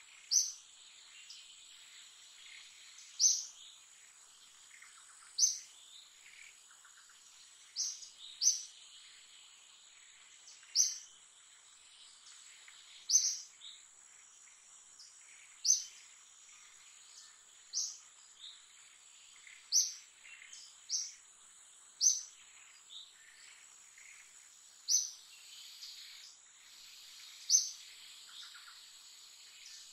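A bird repeating a short, sharp, high-pitched call about every two seconds, over a steady high insect drone.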